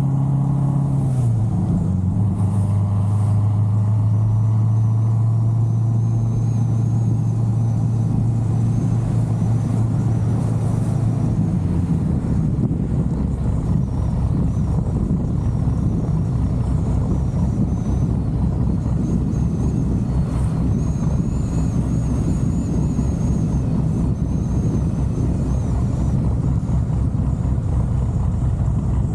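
The big-cam LS7 7.0-litre V8 of a C6 Corvette Z06 is running with the car under way. Its steady drone steps down in pitch about a second in and holds there. From about 12 seconds it turns into a rougher, uneven low rumble mixed with wind noise.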